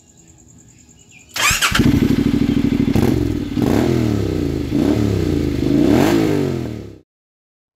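Honda NC750X's parallel-twin engine running under way, its pitch dipping and rising several times as the revs change, with wind noise on the microphone. It cuts in suddenly about a second and a half in and cuts off abruptly near the end.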